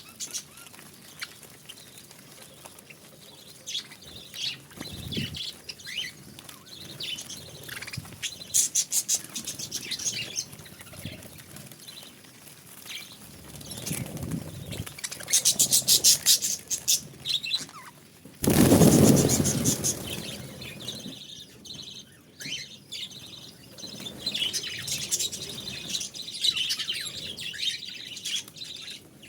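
Budgerigars chirping and chattering, with fast clicking trills. About two-thirds of the way through comes a loud rushing burst, the loudest sound.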